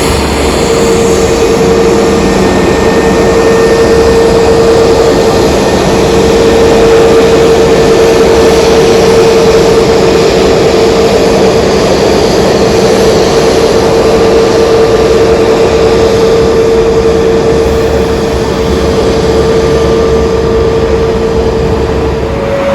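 Jet aircraft engines running steadily: a loud rushing noise with a constant whine that holds one pitch throughout.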